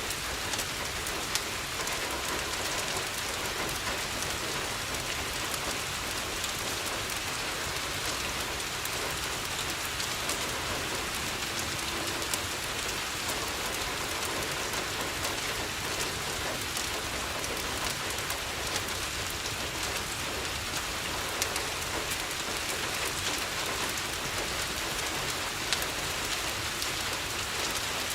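Steady rain on a window, with a few sharp pops from a crackling fireplace scattered through it.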